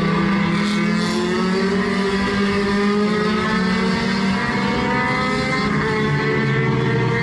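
Race car engines running at sustained high revs on the track, a steady droning note whose pitch drifts slightly lower in the second half.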